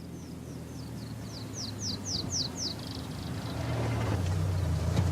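A bird calling in a fast series of short, high, downward-sweeping chirps, about four a second, growing louder and stopping a little under three seconds in. Under it a low steady rumble grows louder.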